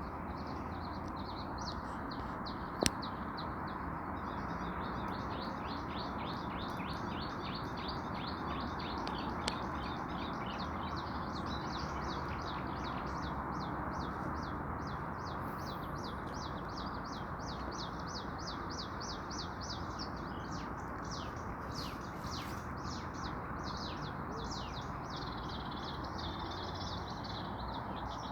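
A bird calling with a long, even run of short high chirps, a few a second, over a steady outdoor rushing hiss, with one sharp click about three seconds in.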